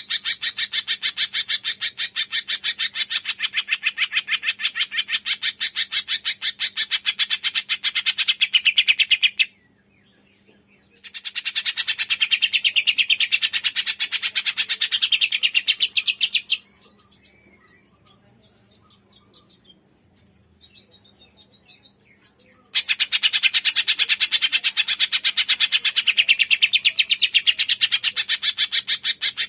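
Cucak ijo (green leafbird) song: long runs of rapid, evenly repeated sharp chirping notes, several a second, broken off about ten seconds in and again for several seconds past the middle, where only faint scattered calls are heard, before the fast chirping resumes.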